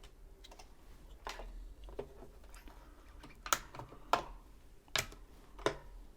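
Light clicks and taps from handling a Janome sewing machine while threading it: about six irregular sharp clicks, the loudest in the second half, over a faint low hum.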